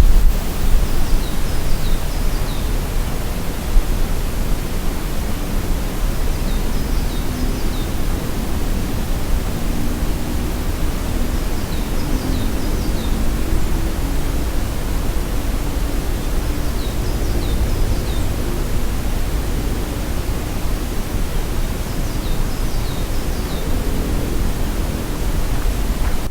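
Steady, loud rush of falling water, like a waterfall or cascade. A small bird repeats a short, high chirping phrase about every five seconds over it.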